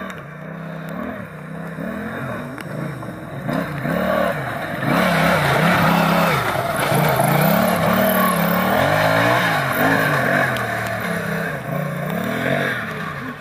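Tractor's Yamaha engine revving up and down over and over, getting louder about five seconds in.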